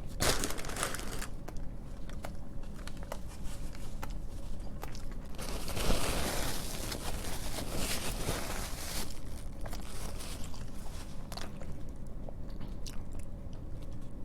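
A person biting into and chewing a barbecue rib sandwich. There is a burst of noise right at the start and a longer stretch of noise in the middle, with scattered small clicks between.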